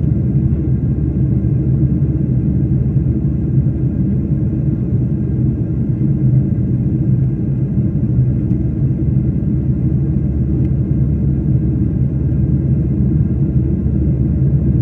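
Steady low rumble of engines and airflow heard inside an airliner's cabin.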